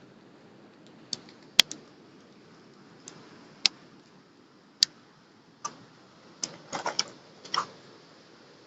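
Small campfire crackling: sharp, irregular pops and snaps of burning wood over a low steady hiss, coming thicker about six and a half to eight seconds in.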